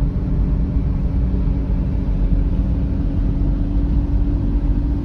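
Road vehicle on the move: a steady low rumble with a faint, even hum over it.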